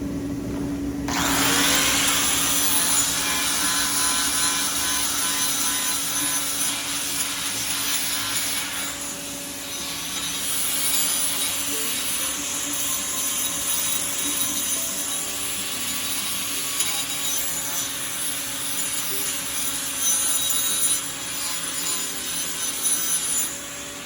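Electric grinder with a nearly worn-out grinding wheel, grinding metal to clean up a part. The motor hum is already there at first, and the harsh grinding noise comes in about a second in and carries on with small dips as the wheel works the piece.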